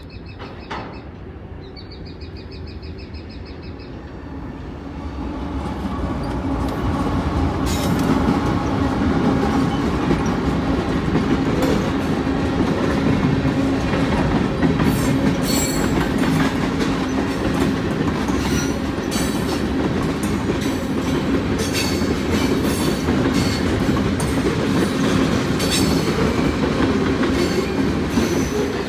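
Canadian Pacific diesel freight locomotive growing louder as it approaches and passes close by, its engine running, followed by a string of tank cars rolling past with steady rumble and repeated clicking of wheels over rail joints.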